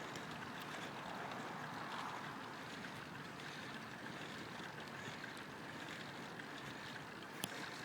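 Steady rush of wind and road noise heard from a bicycle-mounted camera while riding, with one faint click near the end.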